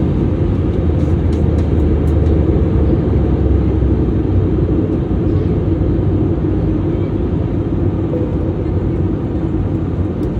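Steady airliner cabin noise on approach: the jet engines and the rush of air over the fuselage make a loud, even drone with a low hum underneath.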